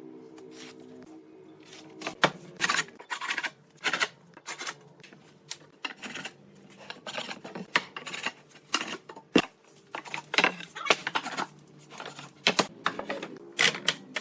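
Irregular scraping and knocking strokes of hand tools working wood, some short and sharp, others drawn out like rasp strokes, with faint music at the start and near the end.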